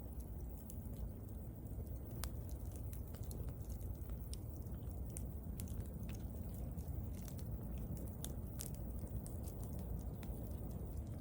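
Wood bonfire crackling: sharp pops and snaps scattered irregularly, about one or two a second, over a steady low rumble of the burning fire.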